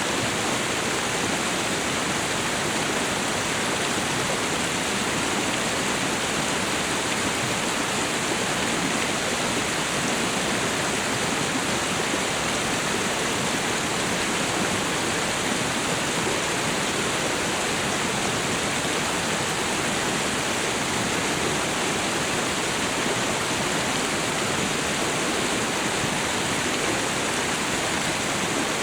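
Waterfall and river water rushing in a steady, even roar of noise.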